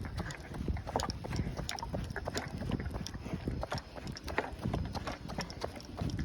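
Running footsteps striking the ground in an uneven rhythm, over the low buffeting rumble of strong wind on the microphone.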